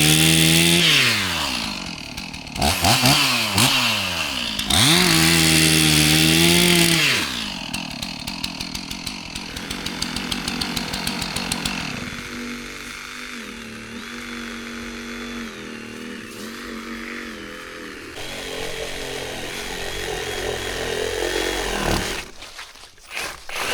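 Chainsaw engine revved to high speed and dropped back several times while cutting a fallen tree, then running at lower speed with a steady pulsing for the rest of the time, fading down near the end.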